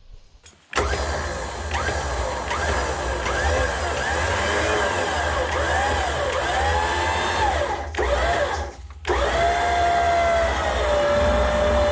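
Electric winch motor on a Jeep Wrangler running under load as it pulls a car out of a ditch, its whine wavering in pitch with the strain. It stops for about a second near the eight-second mark, then starts again and runs on at a steadier pitch.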